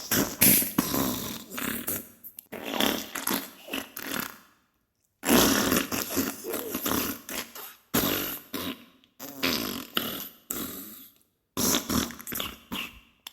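Diarrhea sound effect: wet farting noises in choppy, irregular bursts. They break off into silence twice, about four and a half seconds in and again near eleven and a half seconds.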